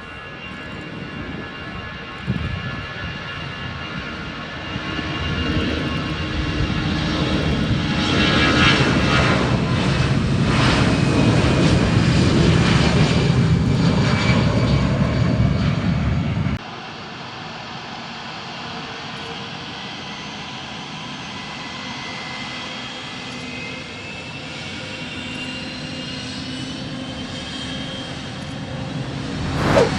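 Jet airliner engines: a roar with whining tones builds to a peak, then cuts off suddenly about halfway through. After the cut, a quieter, steady jet engine whine with high tones runs on.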